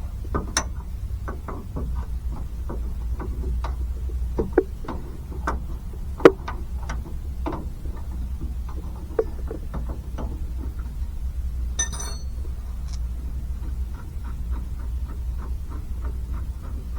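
Hand tools clicking and tapping on metal while working on a rusty brake master cylinder, with one sharper knock about six seconds in and a short rattle about twelve seconds in, over a steady low hum.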